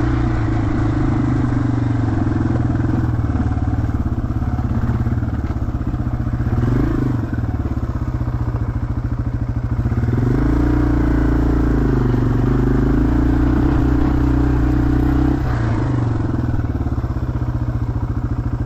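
Yamaha TW200's single-cylinder four-stroke engine running while riding a dirt trail, its pitch rising and falling with the throttle, most clearly about seven seconds in and again from about ten to sixteen seconds in.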